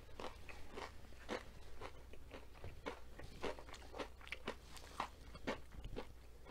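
A person chewing crunchy breaded, fried asparagus: a steady run of crisp crunches, two or three a second.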